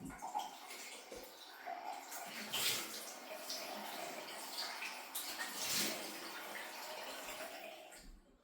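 Water running steadily, cutting off abruptly near the end.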